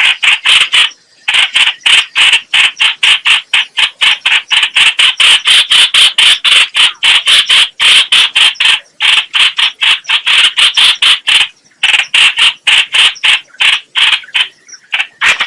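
Bird known in Vietnamese as trao trảo (chao chảo, hoành hoạch) giving a long run of short, harsh, chattering notes, about four a second, with a few brief pauses: its call as used for luring birds to a trap.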